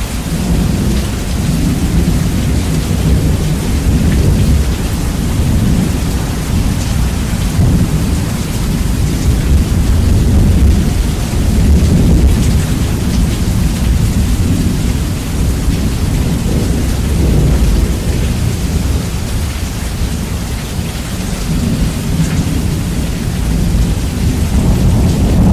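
Heavy rain with rumbling thunder, bass-boosted so the deep rumble dominates over the hiss of the rain. The rumble swells and eases several times.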